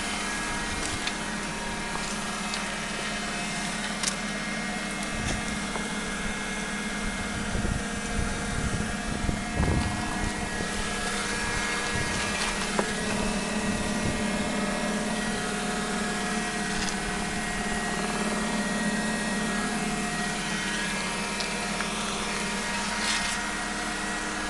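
Mercury 5 hp two-stroke outboard motor running steadily, its output checked as working, with a few uneven louder moments about eight to ten seconds in.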